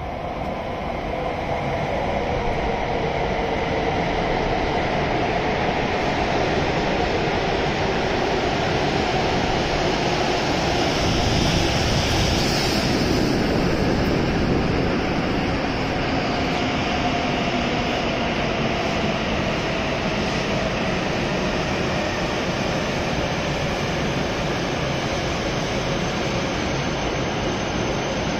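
W7 series Shinkansen train pulling into the platform and braking to a stop: a rushing noise that swells, peaks about halfway, then levels off into a steady hum, with a motor whine falling slowly in pitch as the train slows.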